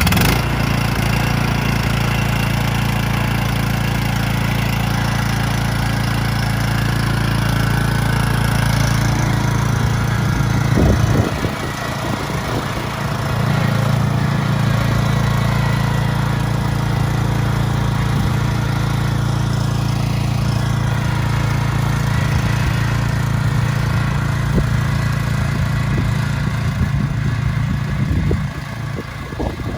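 Riding lawn mower engine running steadily as the mower is driven. The engine note breaks and drops briefly about eleven seconds in, then steadies again.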